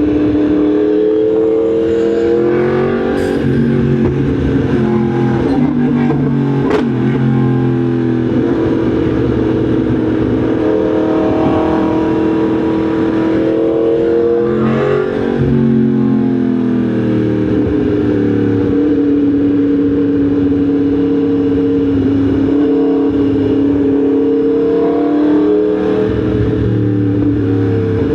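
Yamaha MT-10 SP's crossplane inline-four engine running while riding, its pitch rising and dropping several times as the revs change.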